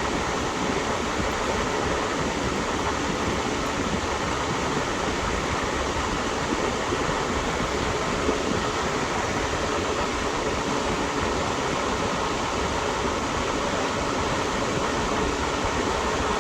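Steady, even rushing noise like a running fan, unchanging throughout with no distinct knocks or clicks.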